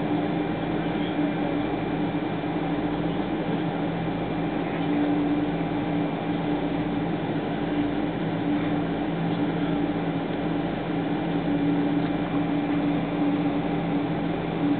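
Steady hum of a Boeing 777-200 airliner's cabin, from its engines and air system, with a few constant tones running through it and no change in pitch or level.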